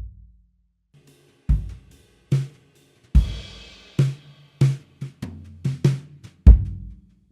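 EZDrummer 3 sampled acoustic drum kit (Alchemy of Pop EZX, Terra 3 brushes kit) playing a groove, with a tape delay on the kick drum. The first hits are sparse, a cymbal crash comes about three seconds in, and then a busier kick-and-snare pattern follows with the low drums ringing.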